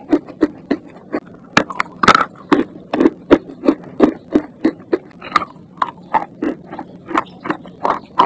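Close-miked crunching of dry chalk being chewed: sharp crunches at a steady pace of about three a second.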